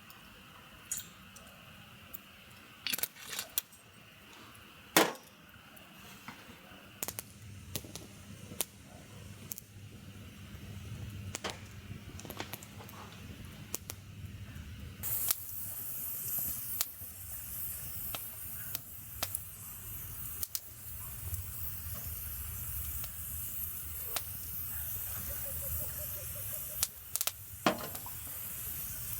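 Wood campfire burning, with scattered sharp pops and snaps. About halfway through a steady hiss sets in and carries on.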